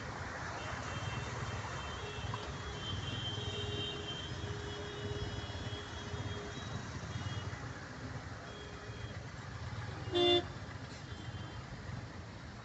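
Steady low rumble, like road traffic, with one short vehicle horn toot about ten seconds in.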